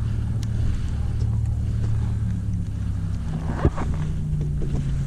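A steady low motor hum, with a brief sharp knock about three and a half seconds in.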